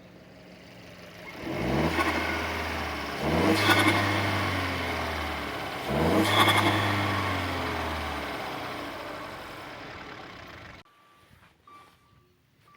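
Turbocharged 1.4-litre four-cylinder engine of a 2014 Dodge Dart, breathing through a short ram air intake, revved three times. Each rev rises sharply to a hissing turbo and intake peak, then winds down slowly. The sound stops abruptly near the end, leaving faint intermittent beeps.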